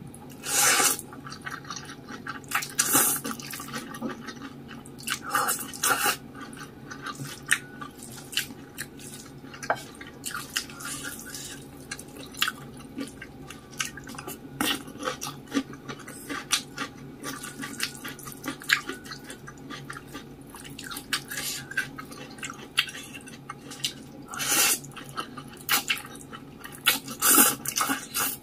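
Close-miked eating of saucy instant noodles and rice: wet chewing and mouth clicks throughout, with a handful of louder wet bursts, around the start, a few seconds in and near the end.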